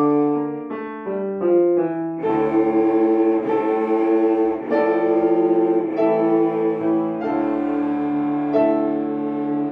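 Three cellos playing with piano accompaniment: a run of short separate notes for the first two seconds, then fuller sustained chords with vibrato.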